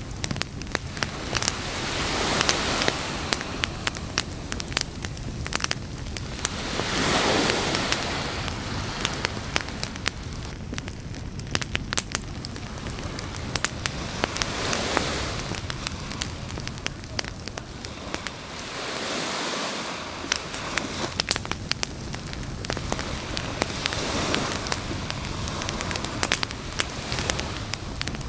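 Campfire crackling and popping, with sea waves washing in and out in slow swells every few seconds.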